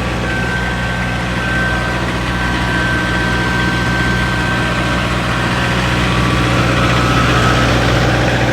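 A stopped vehicle's engine idling steadily with a low, even hum and a faint steady high tone over it.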